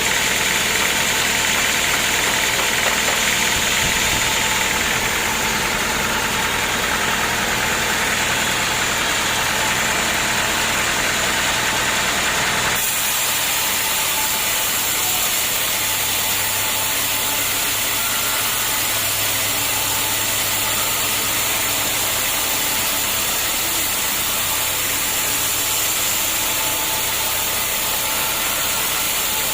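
A homemade band sawmill's engine running steadily. About thirteen seconds in, the sound changes abruptly and becomes less hissy.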